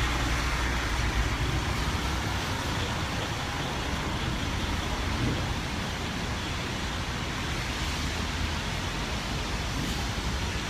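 Steady city traffic noise: a constant low rumble with an even hiss over it.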